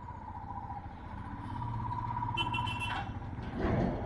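Motorcycle riding on a mountain road: engine and road noise with a steady, slightly wavering whine for about three seconds, then a short noisy burst near the end.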